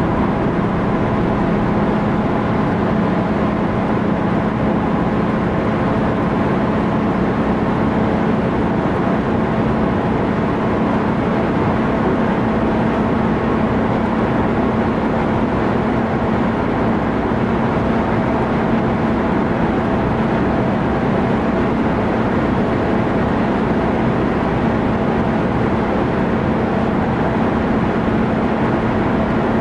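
Mercedes-Benz W126 300 SDL Turbo at Autobahn speed, heard from inside the cabin: its OM603 3.0-litre inline-six turbodiesel holds a steady drone under a constant rush of road and wind noise.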